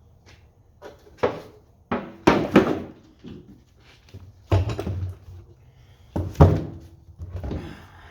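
A series of about five irregular clunks and knocks, metal parts and tools being handled and set down on a workbench.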